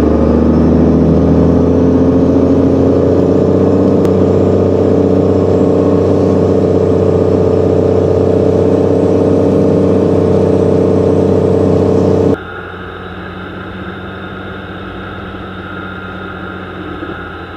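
The 2001 Dodge Ram 2500's tuned Cummins inline-six turbodiesel running steadily under load, its pitch rising slightly at the start. About twelve seconds in, the sound cuts abruptly to a quieter, duller engine drone.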